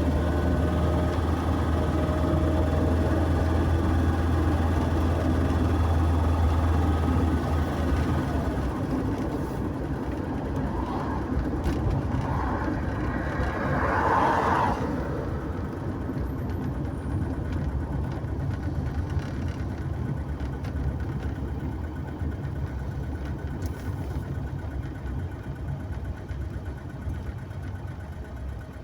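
Vehicle engine and road noise while driving: a steady low drone that eases off about seven seconds in and fades gradually toward the end.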